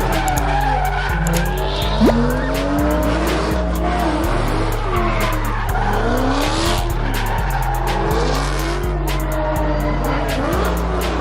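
Cars doing burnouts: engines revving up and down and tyres squealing and skidding, under music with a heavy, stepping bass beat.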